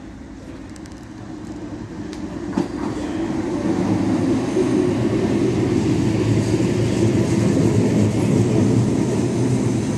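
Tyne and Wear Metro train arriving at the platform, its wheels and running gear rumbling low. It grows louder over the first few seconds as it approaches, with a single click about two and a half seconds in, then stays steady as the cars run alongside the platform.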